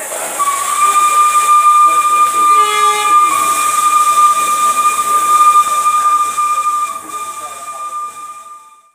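Train horn sounding one long, steady blast of about eight seconds over a rush of hissing air, fading slightly in the last two seconds before cutting off.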